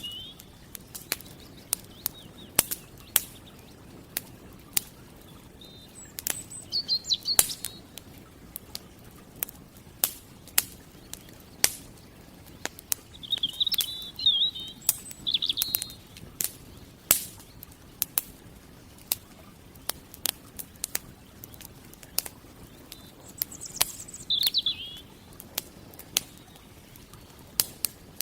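Campfire crackling, with frequent sharp pops and snaps at uneven intervals. A small songbird sings short, high warbling phrases four times over it.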